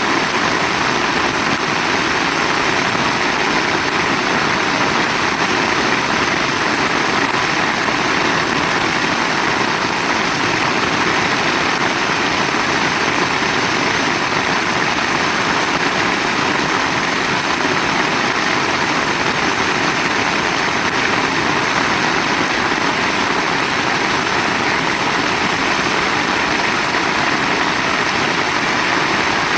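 Heavy rain falling, a loud, steady, dense hiss with no breaks.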